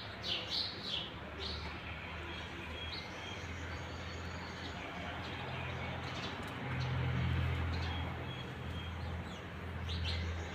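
Wild birds chirping: a run of quick, high chirps in the first second and a half, a few short single notes in the middle, and more chirps near the end. A low steady rumble runs underneath and grows louder in the second half.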